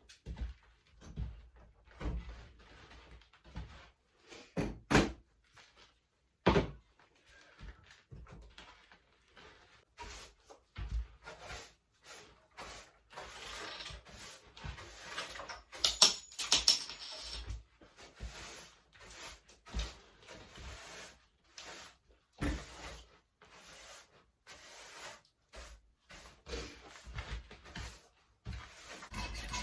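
Irregular knocks, bumps and handling noises, with a brighter clatter about sixteen seconds in.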